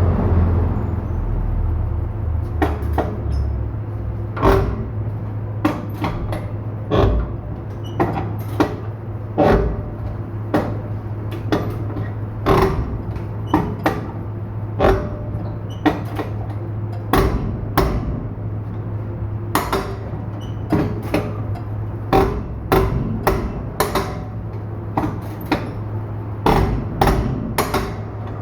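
Repeated sharp metallic knocks in a tire workshop, irregular but about one a second, some with a short ring, like hammer or tool strikes on metal, over a steady low machine hum.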